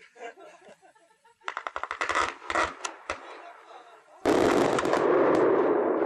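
Fireworks going off: a quick string of sharp crackling bangs, then about four seconds in a sudden loud, steady rushing burst that holds on.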